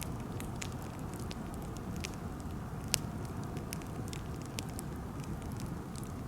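Birch wood fire burning, with irregular small crackles and pops over a steady low rumble; one sharper pop about three seconds in.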